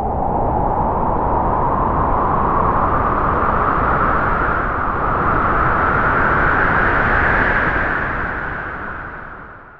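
A spooky Halloween sound effect: one long rushing noise with no clear tone, slowly rising in pitch and fading out near the end.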